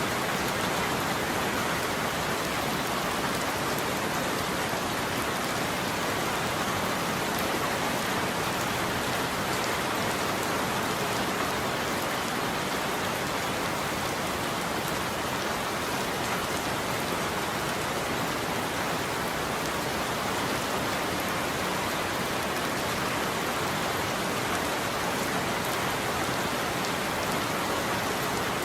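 Steady heavy rain falling and pattering on a surface, an even hiss with no thunder.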